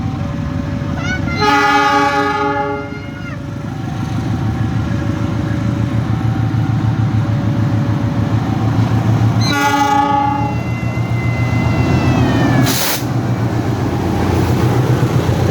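A train passing with a steady rumble, its horn sounding two chord blasts: one about a second and a half in lasting over a second, another near ten seconds. A short loud burst of noise comes near the end.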